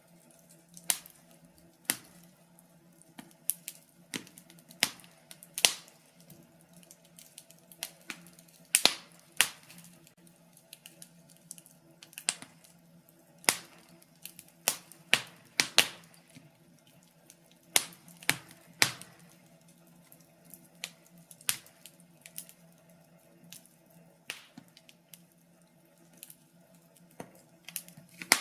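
Fire crackling: irregular sharp pops and snaps, one or two a second with small clusters, over a faint steady low hum.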